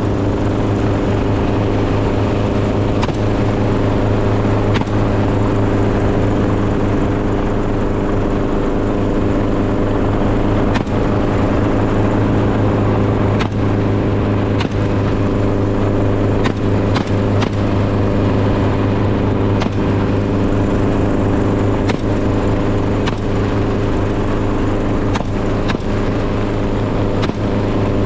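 An engine running steadily at an even pitch, with a few short clicks or knocks scattered through it.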